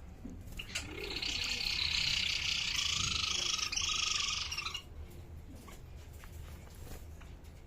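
A bird giving a harsh, buzzy call that lasts about four seconds, starting about a second in, then stopping.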